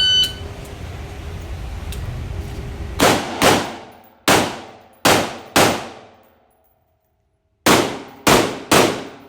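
Shot-timer start beep, then eight rifle shots on an indoor range, each ringing out in the room: five over about three seconds, a pause of about two seconds, then three more in quick succession.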